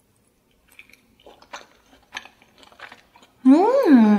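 Faint close-miked chewing of fried food, with small clicks and crunches. Near the end a woman hums a short closed-mouth "hmm?" that rises and then falls in pitch.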